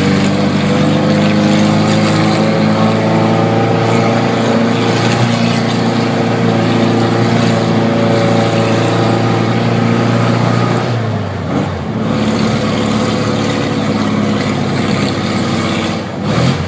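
Classic VW Beetle's air-cooled flat-four engine running through a 4-into-1 straight exhaust with no muffler. The engine note rises and eases gradually, with a brief drop about eleven seconds in before it steadies again.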